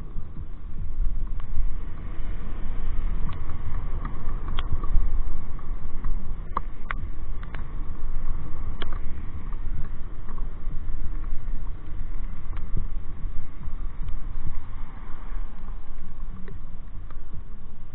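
Wind buffeting the microphone on a moving motorcycle, with steady low road and engine rumble and scattered sharp ticks.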